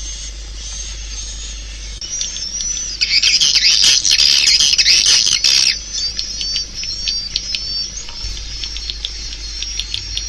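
Swiftlets twittering: a steady stream of high, short chirps that swells into a dense, louder chorus for about three seconds near the middle, then breaks back into rapid separate chirps.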